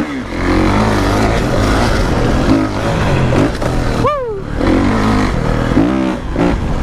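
Kawasaki KX450 dirt bike's single-cylinder four-stroke engine revving up and down under riding, the revs dropping sharply about four seconds in and climbing again near six seconds.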